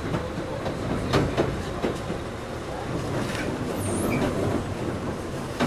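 Running sound inside a resistance-controlled Toyohashi Railway 1800-series electric motor car (ex-Tokyu 7200 series) under way: a steady rumble with rail-joint clicks, and a brief high squeal about four seconds in.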